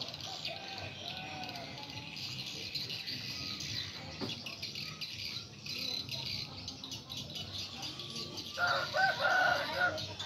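Birds calling in the background, with one louder, drawn-out call lasting over a second near the end.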